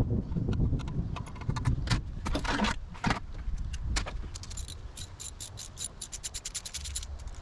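Metal hand tools clinking and rattling during engine work, ending in a quick run of clicks in the second half.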